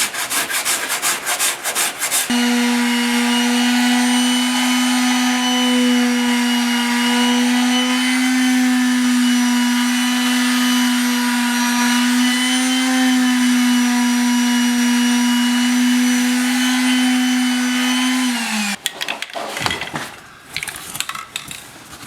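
Sandpaper rubbed in quick, even strokes over body filler. About two seconds in, a machine motor starts and runs at a steady pitch, then winds down with a falling pitch near the end, followed by light clattering.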